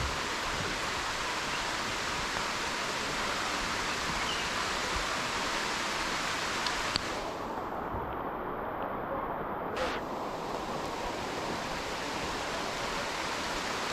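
Steady rush of water cascading down the limestone rocks of a waterfall. It turns muffled for about three seconds around seven seconds in.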